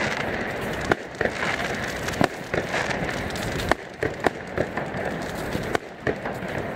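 New Year fireworks going off overhead: a string of sharp bangs and cracks at irregular intervals, often less than a second apart, over a steady noisy background.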